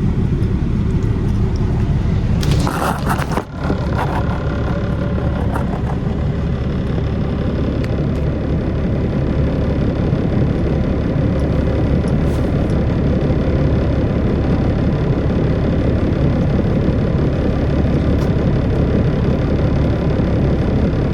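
Semi truck's diesel engine running, heard from inside the cab as a steady low rumble. A brief clatter about three seconds in.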